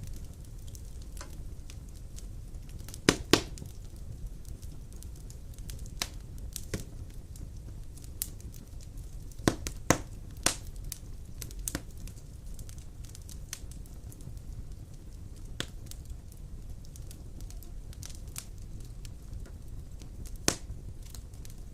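Wood fire of large logs burning in a fireplace: a steady low rumble with scattered sharp crackles and pops. The loudest pops come about three seconds in, around ten seconds, and near the end.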